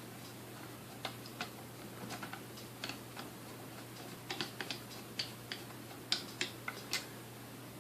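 Irregular light clicks and taps of small metal parts being handled as the original speed-control switch is fitted back into a Sunbeam Mixmaster Model 12 stand mixer. The clicks come more often and louder in the second half.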